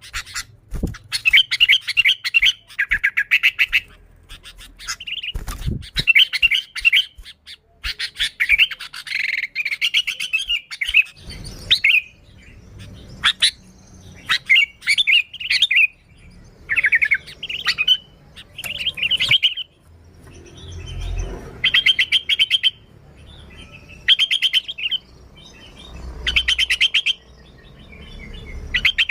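Sooty-headed bulbul (kutilang) singing lively, in repeated short bursts of fast chirping notes with brief pauses between phrases.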